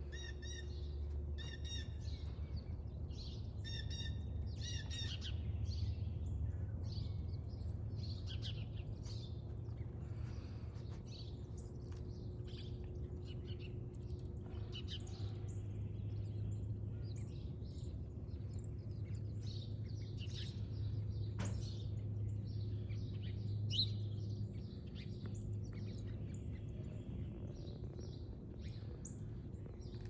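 Several small birds chirping and singing in quick, repeated notes, over a steady low rumble.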